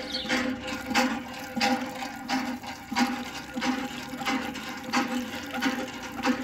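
Miniature hand pump pushing out water in regular strokes: a gush and splash about every two-thirds of a second over a steady hum.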